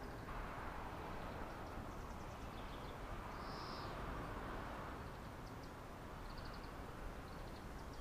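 Faint outdoor ambience: a steady soft hiss with small birds chirping briefly now and then, one clear high call about three and a half seconds in.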